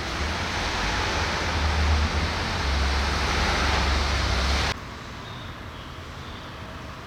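Audi S3 Sportback on the move: a loud rush of wind and road noise over a low drone from its 2.0-litre turbo four-cylinder. The rush cuts off abruptly a little under five seconds in, leaving a much quieter hum.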